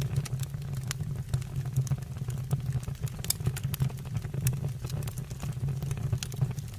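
Wood fire burning in a stove or fireplace: irregular crackles and pops over a steady low rumble.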